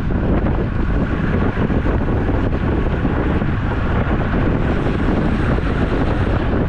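Steady, loud wind rushing over the microphone of a camera riding along on a moving road bike, strongest in the low end.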